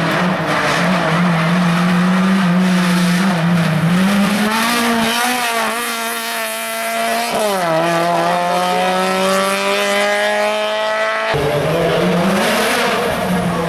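Hill climb race car engine at full throttle, its pitch rising and falling through gear changes and then climbing steadily under hard acceleration. It cuts off abruptly near the end and another stretch of engine sound follows.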